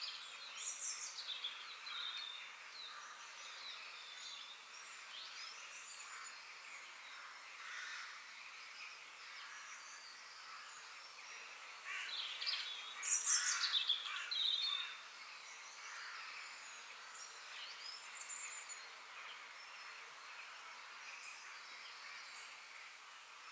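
Wild birds chirping and calling over a steady hiss of outdoor ambience, with a louder flurry of high, quick chirps about halfway through.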